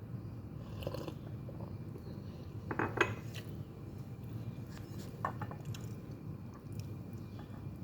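Cutlery clinking against a dish while eating: a few light, scattered clinks, the loudest about three seconds in, over a low steady hum.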